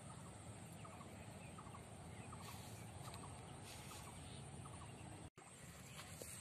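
Faint short bird calls in quick little clusters over a quiet outdoor hiss. The sound drops out for an instant about five seconds in.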